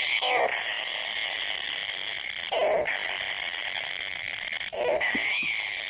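Kingfisher nestlings calling in a tree-hole nest: a steady high-pitched churring, with a short, lower call about every two seconds.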